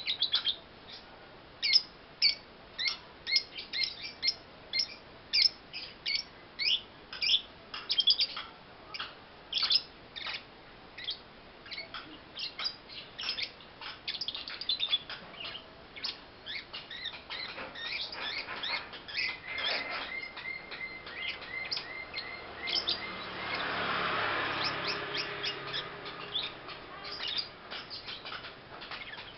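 Young lovebird chirping over and over in short, sharp, high calls, about two or three a second. Past the middle, a thin steady whistle is heard for a few seconds, followed by a brief swell of rushing noise.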